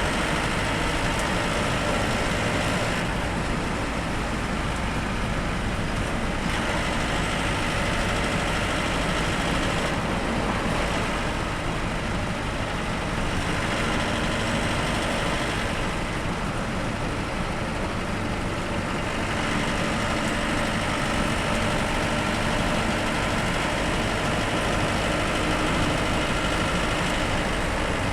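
Bus on the move: steady engine and road noise that runs on evenly with no sharp events.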